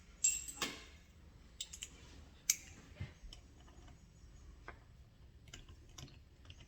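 Scattered small clicks and light metallic taps of hand tools and starter-motor parts being handled, irregular, with the sharpest about two and a half seconds in.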